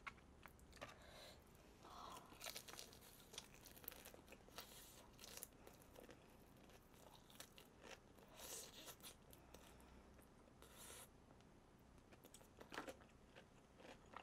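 Faint crunching and chewing of crispy BBQ Golden Olive fried chicken, with the meat torn from the bone, in short irregular bites.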